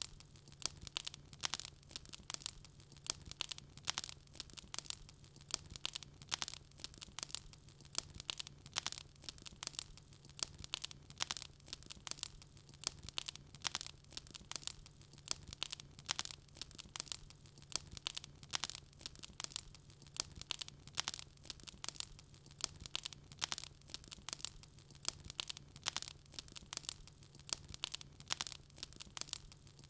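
Wood fire crackling: a dense, unbroken run of sharp pops and snaps, several a second, with a faint steady low hum underneath.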